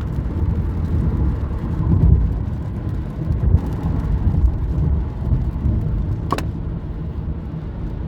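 Steady low road and tyre rumble inside a moving car's cabin on a highway, with a brief high squeak a little after six seconds in.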